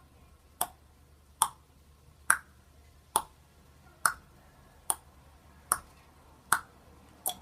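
Nine sharp, evenly spaced clicks, a little more than one a second, over a faint low hum.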